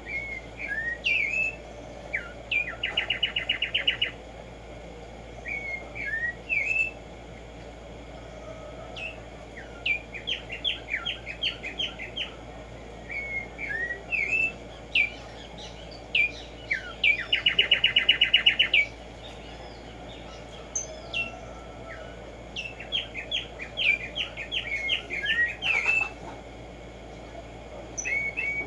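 Black-striped sparrow (Tumba Yegua) singing: phrases of a few sharp slurred notes that run into a fast, even series of notes, repeated several times.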